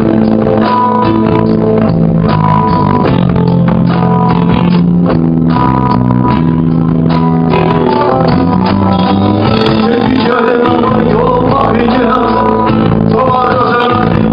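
Live band playing a song, with guitar and bass carrying sustained notes; a wavering melody line comes in over them about two-thirds of the way through.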